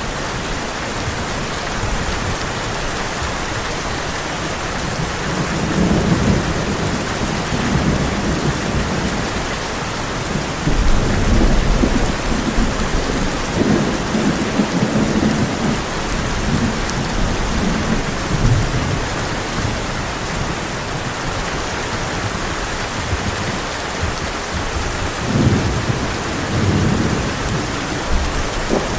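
Heavy rain pouring steadily on a tin roof, with rolling thunder rumbling in low swells several times, the longest about a third of the way in.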